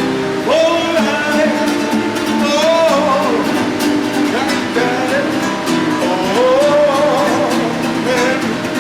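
A man singing a melody, accompanied by strummed chords on a guitar-like plucked string instrument.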